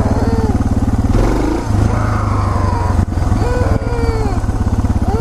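Suzuki DR650SE single-cylinder four-stroke engine running at low road speed during a ride, its exhaust pulses steady, with a brief change in the engine note about a second in.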